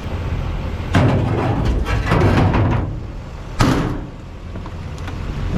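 A sudden clattering knock about a second in that rattles on for a couple of seconds, then a single sharp slam about three and a half seconds in, over a low steady engine hum.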